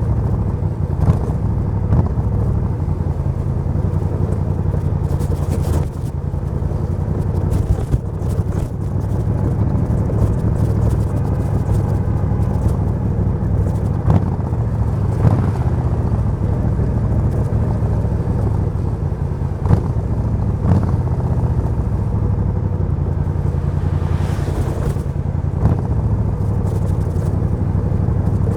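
Suzuki VS1400 Intruder's V-twin engine running steadily at a fairly constant speed, with a brief dip in loudness twice early on.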